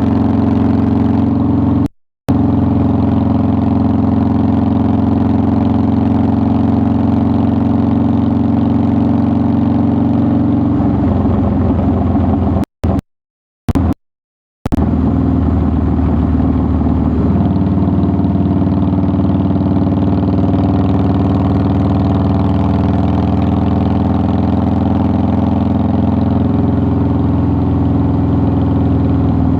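2009 Harley-Davidson Softail Deluxe's air-cooled V-twin engine running steadily, its note changing a little about eleven seconds in and settling again a few seconds later. The sound cuts out suddenly for a moment three times in the first half.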